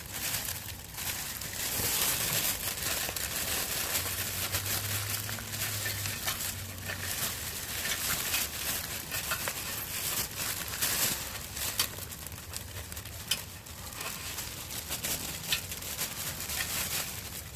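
A hung sheet crinkling and rustling as it is handled and pinned up, with many small sharp clicks. A low hum runs for about three seconds a few seconds in.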